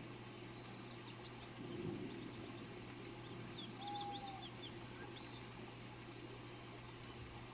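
Steady rain hiss with small birds chirping over it: a few quick high chirps about a second in, a flurry of chirps in the middle with one short lower whistle, and a brief low rumble about two seconds in.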